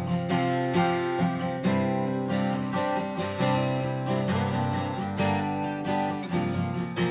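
Acoustic guitar strumming steady chords, with no voice, in an instrumental break between sung verses.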